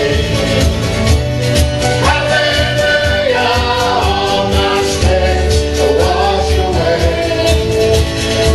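Live worship band playing with a group of singers: sustained sung lines over a steady beat and bass.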